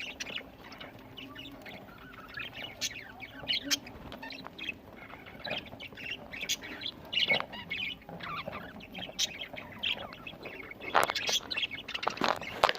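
A flock of budgerigars chirping and chattering, many short overlapping calls, with a louder flurry of calls near the end.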